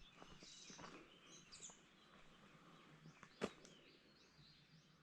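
Faint bird chirps against near silence, with a single sharp click about three and a half seconds in.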